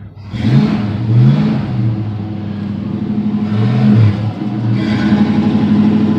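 Ford 289 V8 with a four-barrel carburettor and ceramic-coated headers, running and blipped up in pitch a few times over its idle, each rev rising and falling back within about half a second.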